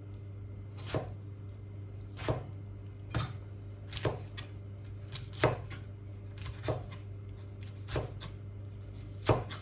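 A kitchen knife chopping tomato on a cutting board, with slow single cuts at about one a second and irregular spacing.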